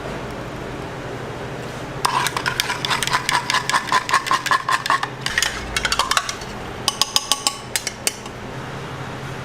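Rapid metallic clinking of metal kitchen utensils striking metal, about six ringing strikes a second for some four seconds, then a short run of sharper taps. A steady hum runs underneath.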